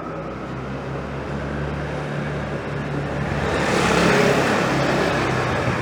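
A motor vehicle driving past close by, its engine running steadily as the sound swells to a peak about four seconds in and then eases off slightly.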